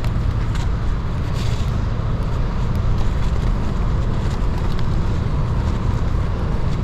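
Gravel bike rolling slowly over a snowy, icy path: a steady low rumble of tyre and wind noise on the action camera, with a few faint clicks.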